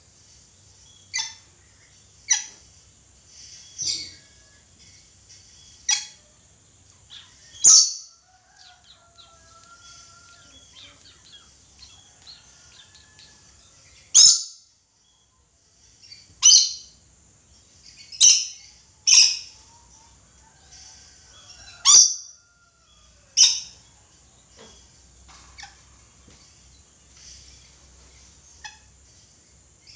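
Red lory (Eos bornea) calling: about eleven brief, loud, high-pitched calls at irregular intervals, with softer chatter between them and a pause of several seconds midway.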